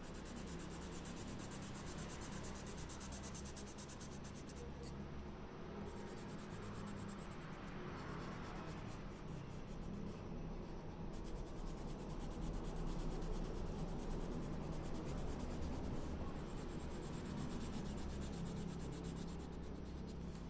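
Colour pencil shading on paper: a steady scratching of the pencil lead as an area is filled in with quick strokes.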